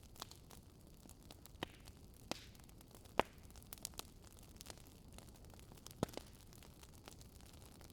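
Wood fire in a fireplace crackling: scattered sharp pops and snaps over a faint steady hiss, the loudest snap about three seconds in and another strong one about six seconds in.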